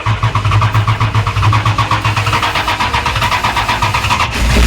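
Mopar 440 big-block V8 cranking over on its starter with a fast, even rhythm, then catching and firing near the end into a louder, deeper rumble.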